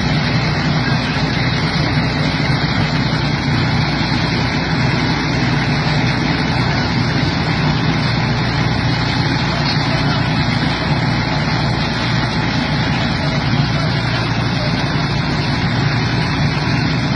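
A heavy truck's engine running steadily under road noise, loud and unchanging.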